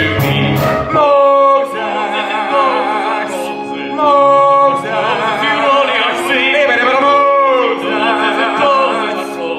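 Musical-theatre singing with accompaniment: singers hold long notes with vibrato over steady sustained chords. The voices swell louder about a second in and again about four seconds in.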